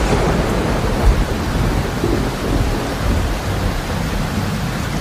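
Steady, heavy rain noise with a deep rumble underneath that swells briefly about a second in.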